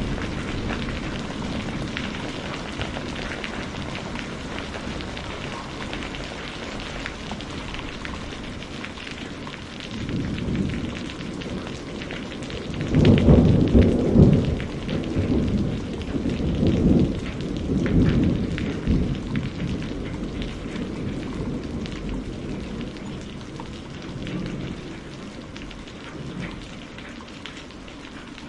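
Steady rainfall, with a roll of thunder rumbling up about ten seconds in, loudest a few seconds later, then fading out.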